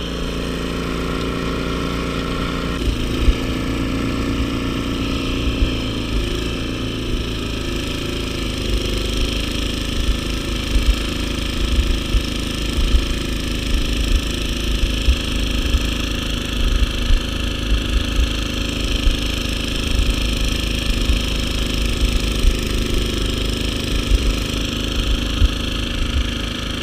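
Gas snowblower engine running steadily under load as it clears and throws snow, its note shifting about three seconds in. Wind buffets the microphone with uneven low rumbles.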